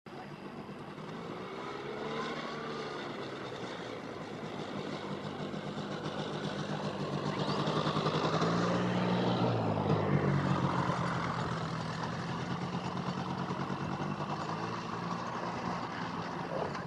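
Propeller aircraft engine droning as it flies past, growing louder to a peak about halfway through and then easing off.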